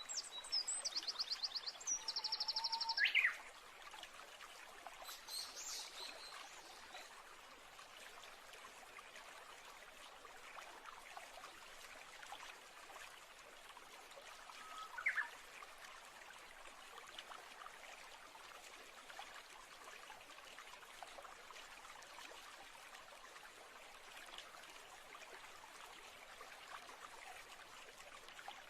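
Natural ambience of a steadily trickling stream, with a bird singing rapid high trilled phrases during the first three seconds and a single short rising call about fifteen seconds in.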